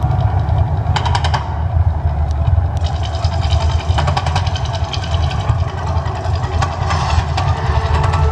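Man-made volcano attraction erupting: a loud deep rumble that runs on without a break, with bursts of crackling about a second in and many more from about three seconds on.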